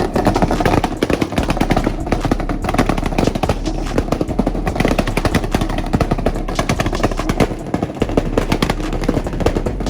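Two car engines revved flat out against each other in a rev battle, a loud, rapid stuttering crackle from the exhausts that keeps going without a pause.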